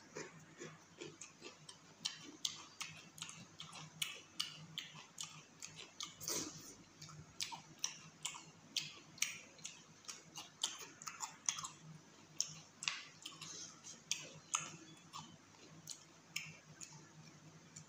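Close-up eating sounds: wet chewing and lip-smacking as chicken curry and rice are eaten by hand, a quick, irregular run of sharp mouth clicks several times a second. A faint steady low hum lies underneath.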